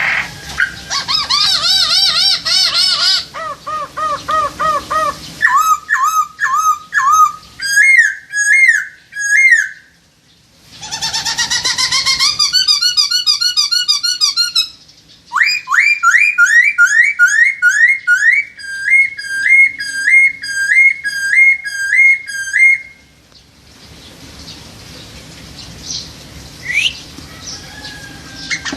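Hongkong poksai (a laughingthrush) singing loudly, a lure song for magpie-robins: runs of clear repeated whistled notes, quick upward sweeps and looping phrases. It stops about 23 seconds in, leaving only a few faint scattered chirps.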